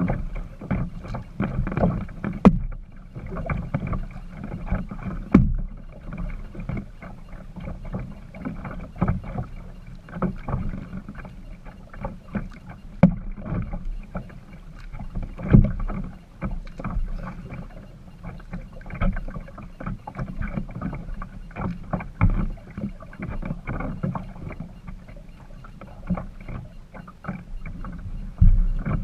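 Kayak being paddled: irregular paddle splashes and drips, with frequent knocks and bumps against the hull over a low, steady rumble.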